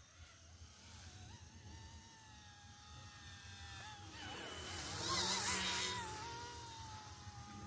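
Small electric RC model motor whining, its pitch wavering with the throttle. It grows louder and rougher for about a second around five seconds in.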